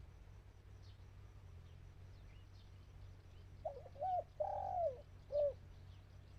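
Spotted dove cooing: a single phrase of four short notes a little under four seconds in, the third note the longest and loudest. Faint high chirps of small birds sound throughout.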